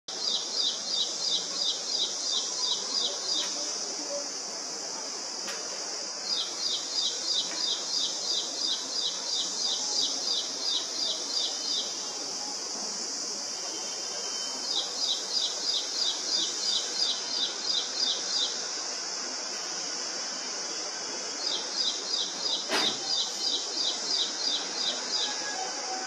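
Ashy prinia singing: four bouts of a rapid, even run of high chirping notes, about four a second, each bout lasting a few seconds with short pauses between. A steady high insect drone runs underneath.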